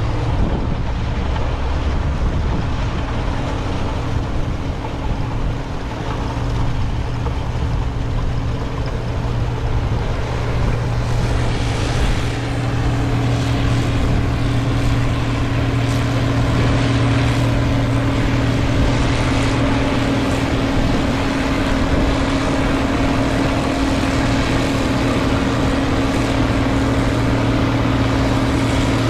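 Heavy diesel farm machinery running steadily under load: a steady low engine hum with a higher tone above it, growing a little stronger about a third of the way in.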